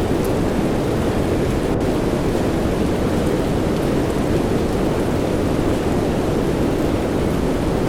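Soft rain blended with white noise: a steady, even rushing hiss, deeper than bright, with no change in level.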